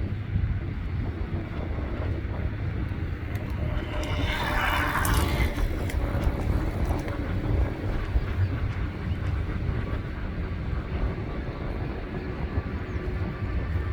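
Steady low engine rumble with wind buffeting the microphone, and a brief hissing swell about four seconds in.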